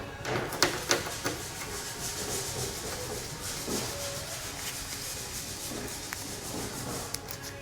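A steady rubbing or scraping sound, with a few sharp knocks in the first second or so.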